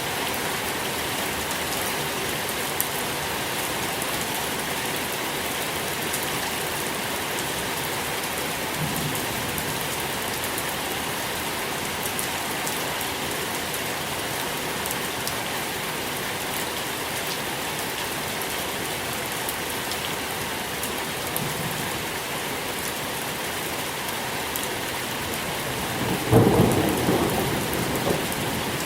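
Steady rain falling, with a short roll of thunder about three seconds before the end.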